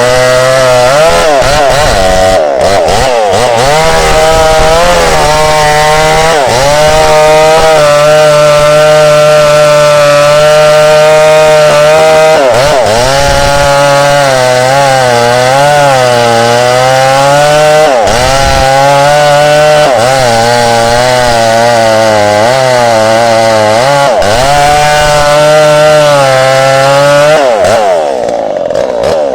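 Tanika MS 5800 two-stroke chainsaw running at high revs and cutting into candlenut wood. Its engine note dips and recovers again and again as the chain bogs under load. Near the end it drops quieter.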